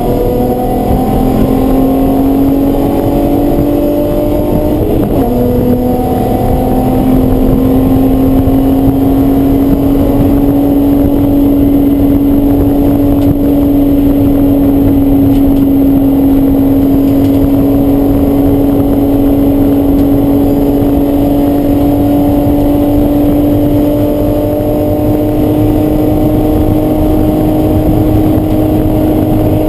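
Race car engine under hard acceleration, revs climbing, then a gear change about five seconds in, after which it pulls steadily with the revs slowly rising, over a steady rush of noise.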